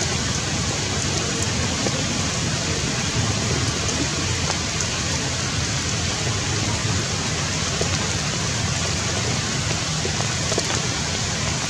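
Steady rain falling on tree foliage: an even hiss with a few sharp drip ticks scattered through it.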